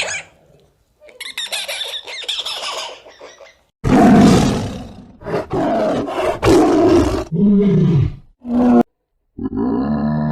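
A run of different animal calls, cut one after another. The loudest is a harsh, roar-like call starting about four seconds in and lasting about three seconds. Shorter pitched calls follow, then a low grunt near the end.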